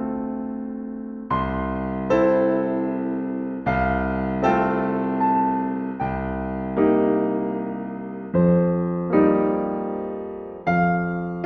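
Slow, gentle solo piano music: soft chords struck about once a second in an unhurried pattern, each one left to ring and fade before the next.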